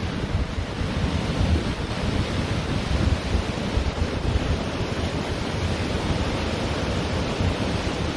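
Ocean surf washing steadily onto a beach, with wind buffeting the microphone in gusty low rumbles.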